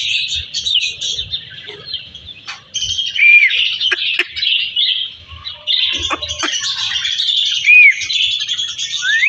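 Parrots chattering and chirping steadily, with a couple of loud, arching whistles and a few sharp clicks.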